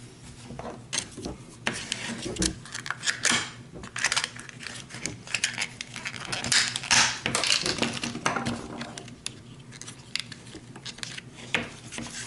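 Plastic driver-bit case being handled and worked open: an irregular run of clicks and knocks, with small steel bits clinking and rattling inside.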